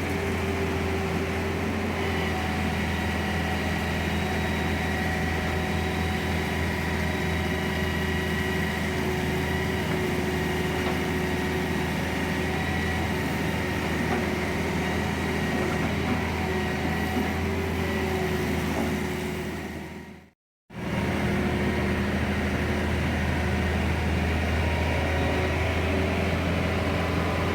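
Motor vehicle engine running at a steady speed, an even hum with a few held tones. It cuts out briefly about twenty seconds in, then resumes unchanged.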